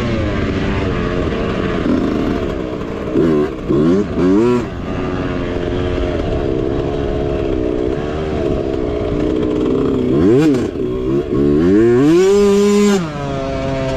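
Mini bike engine revving up and down under throttle while riding a trail, with several quick blips and a high rev held briefly near the end.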